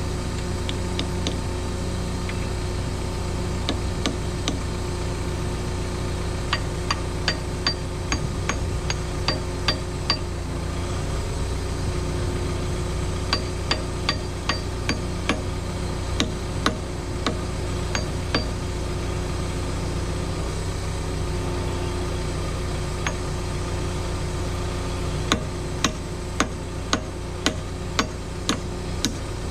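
Cat 314E excavator's diesel engine running steadily under runs of sharp metallic clinks, about one or two a second, that come and go several times.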